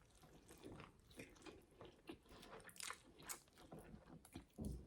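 Close-up chewing of a mouthful of KFC burger: faint, irregular crunching and wet mouth sounds, with a louder bite or crunch near the end.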